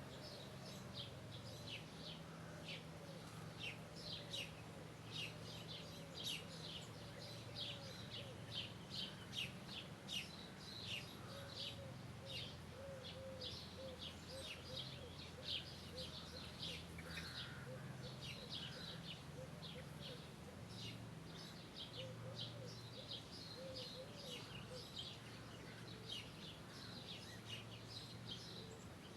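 Birds chirping: a dense run of short, high chirps that keeps going throughout, with a lower, wavering repeated call for much of it. A faint steady low hum sits underneath.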